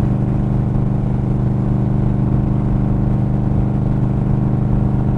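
Motorcycle engine running at a steady cruise, an even drone with no change in pitch, over low wind and road rumble.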